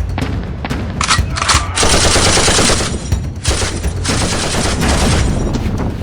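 Automatic gunfire sound effect laid over a toy blaster fight: several long rapid-fire bursts, about a second in, about two seconds in and again from the middle to near the end, over a steady low rumble.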